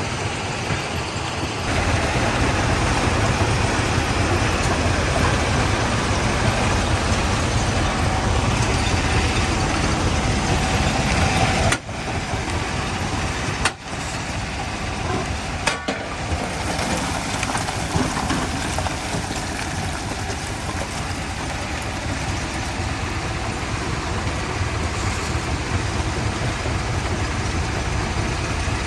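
Quarry primary jaw crusher running: a steady, heavy mechanical din with engine noise in the low end. It gets louder about two seconds in and breaks off briefly three times around the middle.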